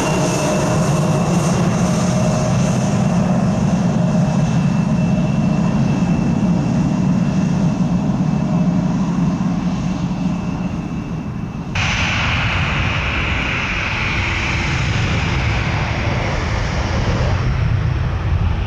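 Jet airliner engines running loud and steady, with a high whine over a low rumble. About two-thirds through, the sound cuts abruptly to another jet, hissier and higher.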